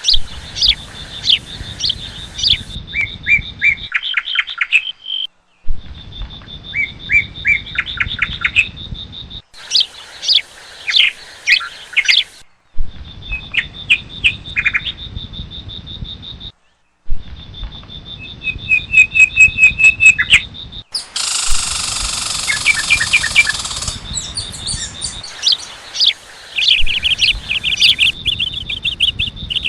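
Parrots chirping and calling in quick series of sharp whistled notes. The sound breaks off abruptly several times, and there is a harsher, noisier stretch a little past the middle.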